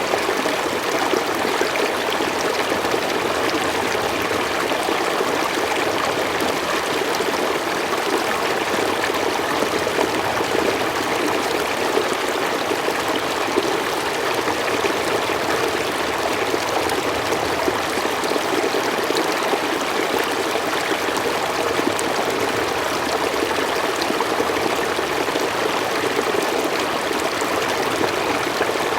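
Forest stream flowing steadily, an even rush of running water over stones with a light trickle and gurgle, unchanging throughout.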